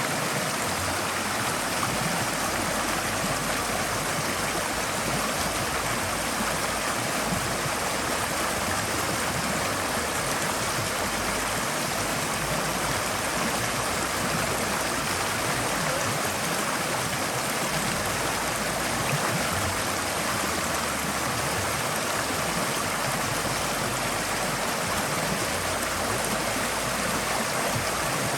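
Forest stream flowing over rocks: a steady, continuous rush of water with gurgling and trickling.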